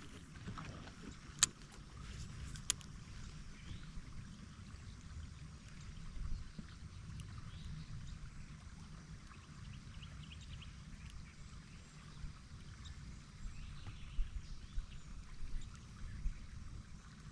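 Kayak sounds while fishing: a low steady rumble of hull and handling noise, with two sharp knocks in the first three seconds and a few light ticks near the end.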